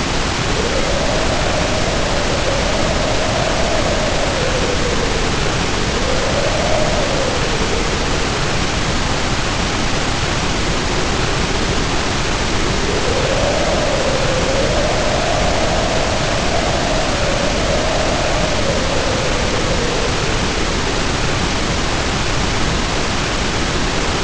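Heavy rain pouring down steadily under wind howling in long rising and falling moans, in two spells: one starting about half a second in and fading around eight seconds, and another through the middle of the stretch.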